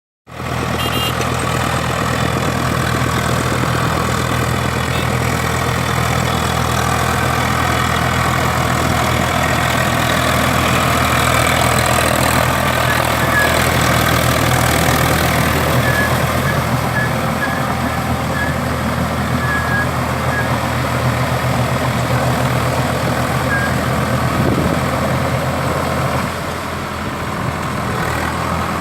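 Swaraj tractor's diesel engine running steadily at a constant speed, dipping slightly in loudness near the end.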